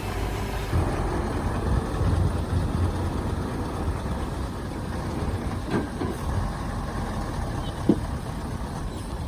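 Heavy diesel earthmoving machine running steadily with a low rumble, with a couple of short knocks a little after halfway and near the end.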